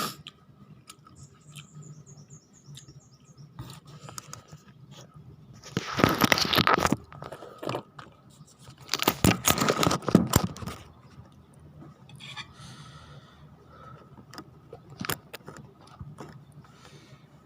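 Close-miked eating sounds from a noodle and fried-chicken meal: scattered mouth clicks, with two loud, noisy spells of eating about six and nine seconds in.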